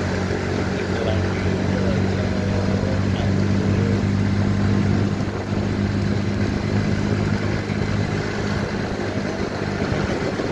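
Motorcycle engine running at a steady speed, a constant low hum with a rush of wind and road noise over it.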